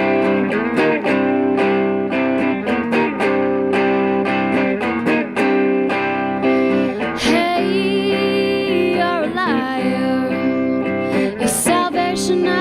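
Indie rock band playing live: guitar chords over a steady beat, with a singing voice coming in about halfway through.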